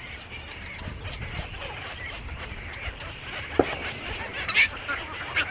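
Many birds chirping and calling over one another in short, overlapping calls, with a sharp click about three and a half seconds in and a louder call a second later.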